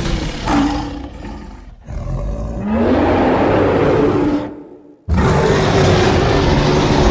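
Edited creature roar sound effects for a gorilla-like monster. A roar rises in pitch and dies away to a short silence about five seconds in, then a new, loud, sustained roar cuts in.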